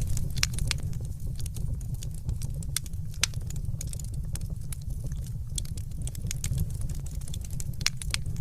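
Wood fire crackling in a fireplace: irregular sharp pops and crackles, several a second, over a steady low rumble of burning.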